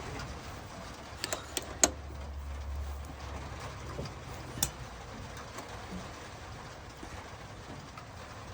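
Low hum of a workshop lathe running that fades away about three seconds in, with a few sharp metallic clicks and knocks, the loudest just before two seconds and another at about four and a half seconds.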